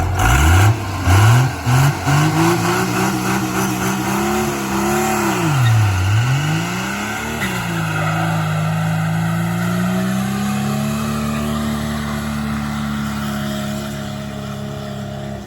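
Turbo-diesel pickup doing a burnout: the engine is revved in quick bursts, then held at high revs with a sharp dip and recovery about six seconds in, while the rear tires spin.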